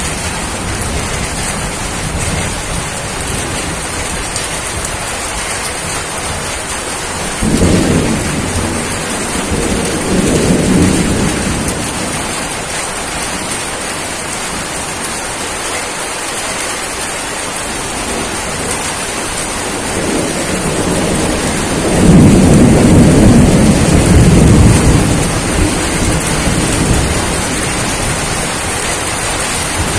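Steady rain falling, with two low rolls of thunder: one about a quarter of the way in and a longer, louder one about two-thirds through.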